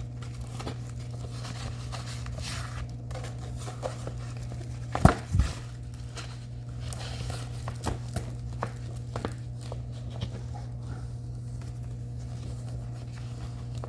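Handling of a plastic-covered diamond painting canvas as it is unrolled from its foam roller: scattered crinkling and rustling with light clicks, and two sharp knocks about five seconds in, over a steady low hum.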